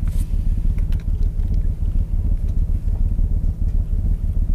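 Rally car's engine idling steadily while the car stands still, heard from inside the cabin.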